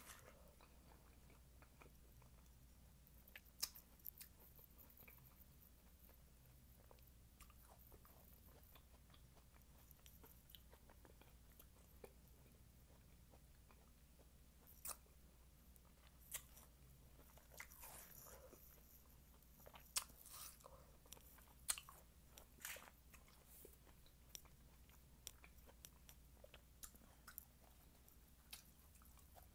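Faint chewing of watermelon, with scattered short mouth clicks and small crunches dotted through.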